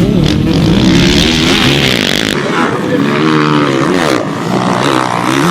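A 250 cc two-stroke motocross bike's engine revving hard, its pitch climbing and dropping several times as the throttle opens and closes.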